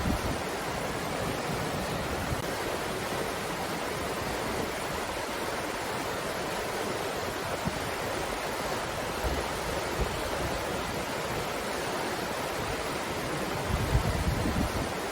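Wind blowing steadily as an even rushing noise, with a few brief low gusts buffeting the microphone, the strongest near the end.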